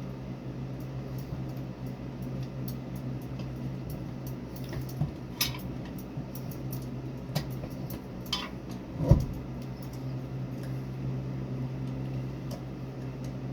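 A few light clicks and clinks, and one louder knock about nine seconds in, over a steady low hum.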